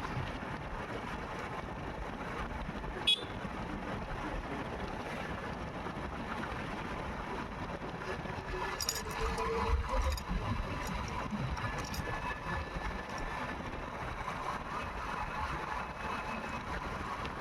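Motorcycle on the move on a wet road: steady wind and road noise with a faint engine tone. There is a sharp click about three seconds in and a few short ticks around the middle.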